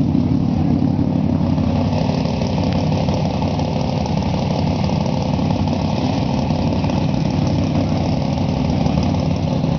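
Loud car engine idling steadily, with a deep, even rumble and no revving.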